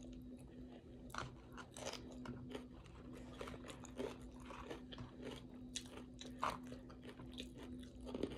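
Close-up chewing and crunching of tortilla chips with taco salad toppings, a run of irregular crunches. A faint steady hum lies underneath.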